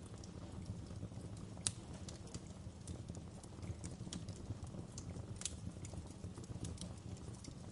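Wood fire crackling in a fireplace: irregular sharp pops and snaps over a steady low rumble of flames, with a louder pop about a second and a half in and another near the middle.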